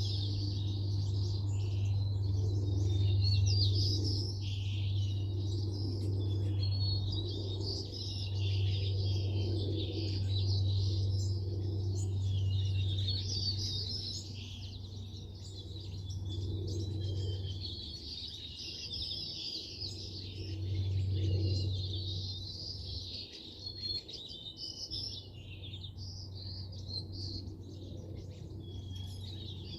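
Many songbirds chirping and twittering at once in a dense, continuous chorus, over a steady low hum that fades out about two-thirds of the way through.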